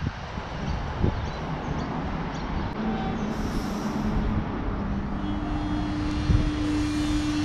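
X'Trapolis electric suburban train running through the station, a rumble that builds steadily, with a steady hum coming in about five seconds in.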